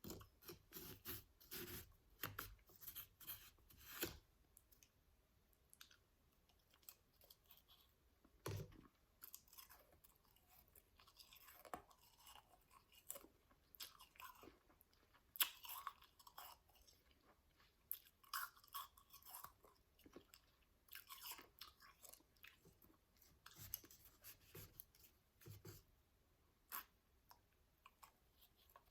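Close-miked chewing of powdered, snow-like ice: bunches of soft crunching bites with short pauses between them, one louder crunch a little past halfway.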